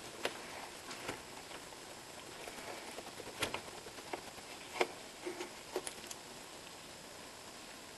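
Scattered light clicks and taps of hand work on a car engine, about a dozen, the sharpest two about three and a half and five seconds in.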